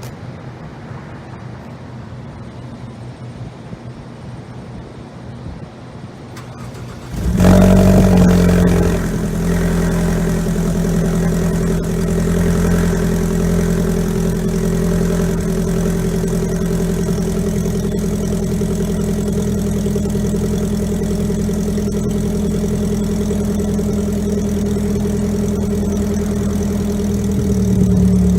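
Low background noise, then about seven seconds in the 2014 Ford Focus SE's four-cylinder engine starts, flares briefly and settles into a steady idle through a muffler-deleted exhaust with dual tips.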